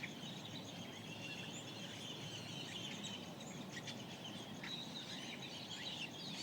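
Several small birds chirping and trilling at dawn in the Mojave Desert over a steady low background hiss, with overlapping short calls.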